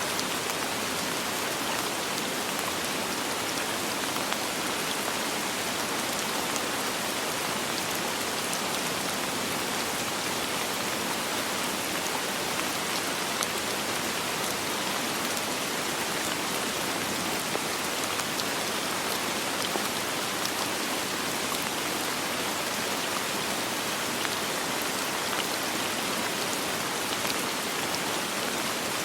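Steady rain falling, an even hiss of many small drops with fine scattered patters and no thunder.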